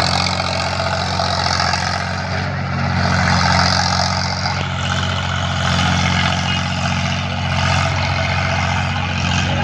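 Eicher 557 tractor's diesel engine running steadily at a constant speed, a low even drone.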